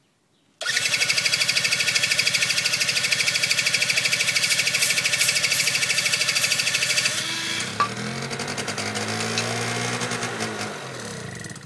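Honda Razz scooter's small two-stroke engine being cranked on the electric starter with a fast, even chugging for about seven seconds. It then catches and runs unevenly, its pitch rising and falling, and dies abruptly near the end: the engine stalls as soon as it gets going.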